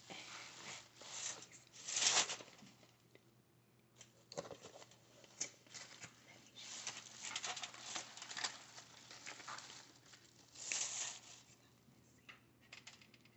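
Close-miked ASMR eating and food handling from a seafood boil: irregular crackling, tearing and crinkling noises, loudest about two seconds in and again near eleven seconds.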